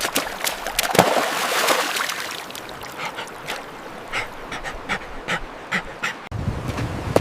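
A golden retriever splashing through water: a splash about a second in, then a string of quick, irregular taps and splashes from its paws.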